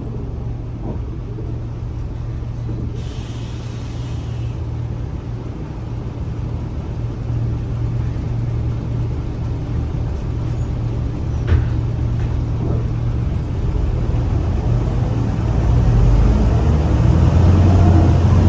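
Scania L94UA bus engine running with a steady low rumble that grows louder over the last few seconds. A short hiss comes about three seconds in.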